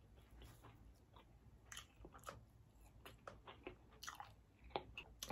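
Faint close-up chewing and mouth sounds from eating turkey leg meat: a scattering of soft, short wet clicks and smacks.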